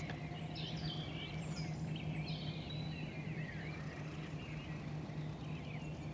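Several small birds chirping and calling in quick, overlapping short notes, over a steady low hum.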